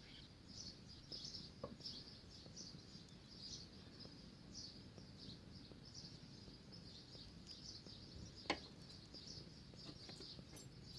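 Faint bird chirps repeating at a steady pace, with one sharp click about eight and a half seconds in.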